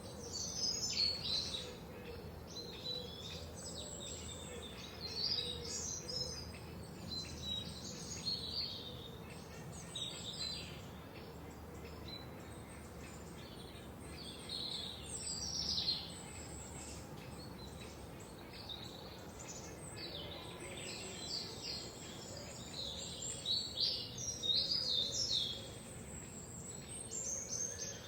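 Several songbirds chirping and trilling in a forest, short high phrases coming in bursts every few seconds over a faint steady background hum, busiest about a second in, around sixteen seconds in and around twenty-four seconds in.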